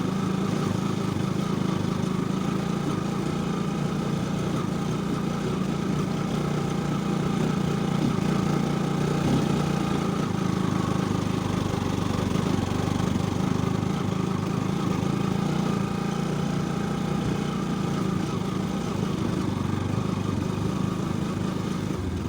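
Street motorcycle's engine running steadily at low, even speed as the bike is ridden slowly.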